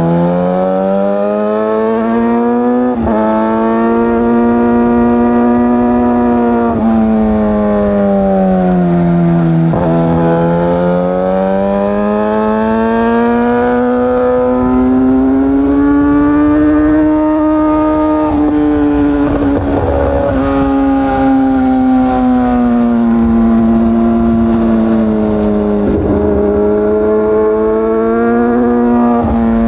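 2013 Yamaha R6's inline-four engine, heard through an Akrapovic short slip-on exhaust, running under way. Its pitch rises and falls slowly with the throttle, with a few brief breaks. Low wind rumble lies underneath.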